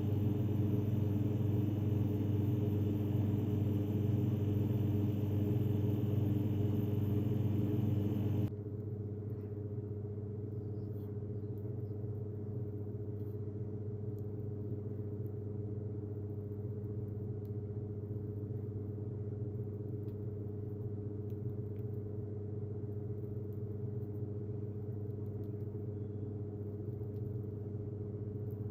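A steady low hum with several held tones, the kind a small motor or appliance makes. About eight seconds in it suddenly drops in level and the hiss above it cuts out, and faint small ticks follow.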